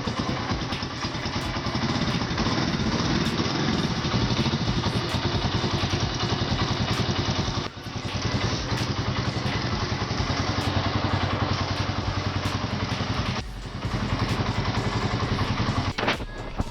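Spark SP125C-2C motorcycle's 125 cc single-cylinder engine running steadily, its sound dropping away briefly three times, about eight, thirteen and a half, and sixteen seconds in.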